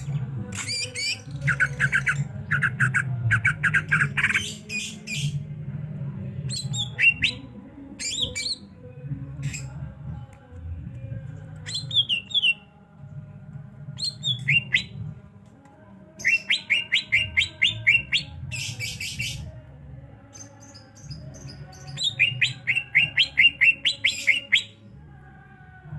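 Cucak ijo (green leafbird) song: bursts of quick downward-slurred chirps, several of them run into rattling series of about five or six notes a second, with single sharp notes between, over a low steady hum.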